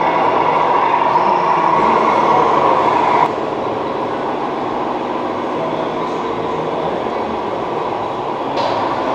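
Steady mechanical running noise with a whine, which drops abruptly to a lower, quieter noise about three seconds in.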